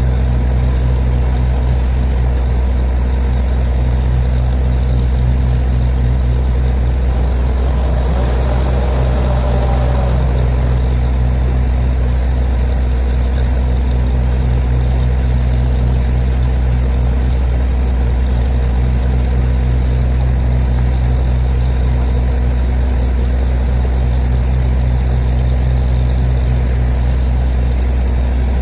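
Borewell drilling rig's heavy diesel engine running steadily with a deep, even drone, with a short burst of hiss about eight seconds in.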